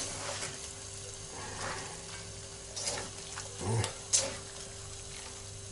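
Fried lagman noodles sizzling steadily in a kazan, frying until crisp, with a few sharp scrapes and clacks of a utensil stirring them, the loudest about three and four seconds in.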